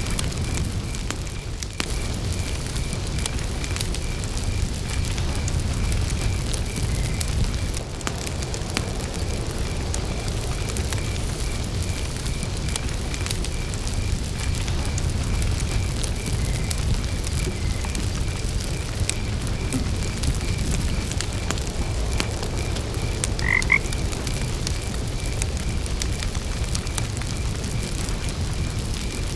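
Campfire burning with a steady low rush and scattered crackles, under a steady pulsing chirp of crickets and croaking frogs. A single short rising call stands out about two-thirds of the way through.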